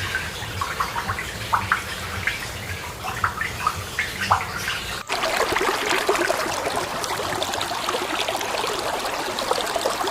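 Water running and trickling, a dense splashing that starts abruptly about five seconds in. Before it, scattered short high chirps over a low hum.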